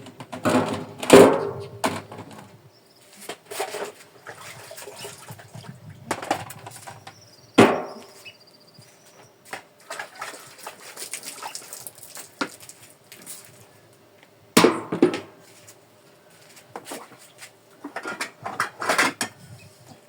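Pots and dishes clattering and knocking as they are washed and set down on a metal drum, with bits of water splashing. The clatters are irregular, with sharper knocks about a second in, around the middle and near the end.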